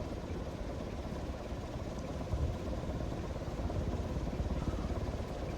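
SMC A52 ceiling fan running steadily at its highest speed: an even rush of moving air over a low motor hum.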